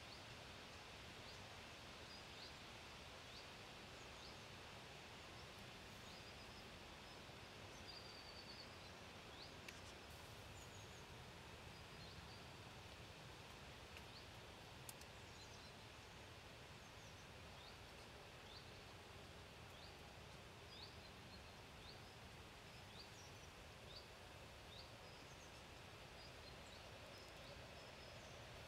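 Quiet outdoor ambience with a steady faint hiss, over which a bird gives short, high chirps over and over, about one a second, with a couple of faint clicks.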